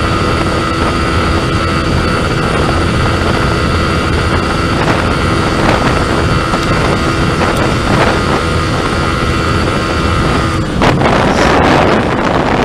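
Yamaha New Vixion Lightning's 150 cc single-cylinder four-stroke engine held at steady high revs near top speed, with wind buffeting the microphone. About eleven seconds in, the engine note drops out abruptly and a louder wind rush takes over.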